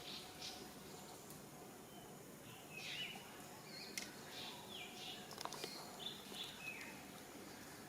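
Faint outdoor background with scattered short, high-pitched chirps, several of them sliding down in pitch, about one every second or two.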